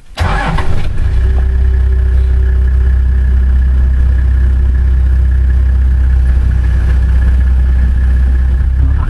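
A car engine starts with a short burst a fraction of a second in, then runs steadily and loudly.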